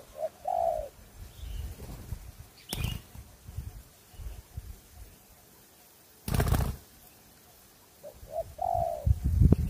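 Wild spotted dove cooing: two short notes followed by a longer falling coo, heard at the start and again near the end. Low rumbling noise runs underneath, with a sharp crack about three seconds in and a louder rushing burst a little after six seconds.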